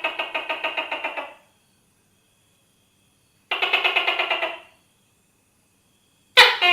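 Tokay gecko calling: two bursts of rapid rattling pulses, the first about a second and a half long and the second about a second long, then a sudden loud call near the end.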